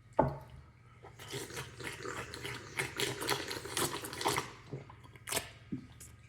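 Water splashing and dripping at a pet water fountain: a run of irregular wet splashes and drips lasting a few seconds, after a single knock at the start.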